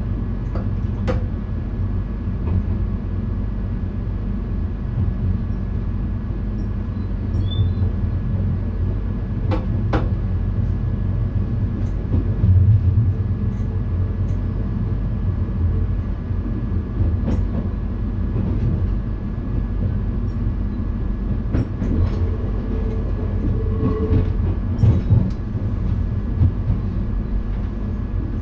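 Cab of an NS VIRM double-deck electric train running on the rails: a steady low rumble with a faint steady whine and scattered sharp clicks and knocks from the track.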